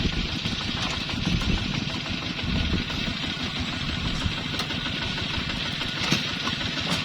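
ZT 155 tractor engine running steadily, a fast, even low pulsing with no pauses.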